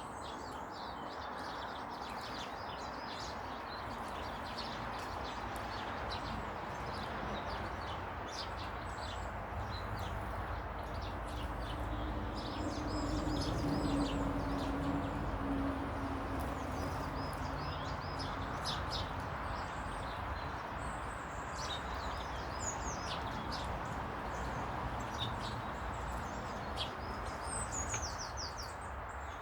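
Small garden birds chirping and twittering again and again over a steady background rumble. A low hum swells and fades around the middle.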